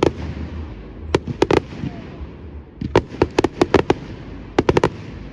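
Fireworks display: sharp aerial shell bangs going off in quick clusters, a few at the start, then a rapid run of about eight, then four more near the end, over a steady low rumble.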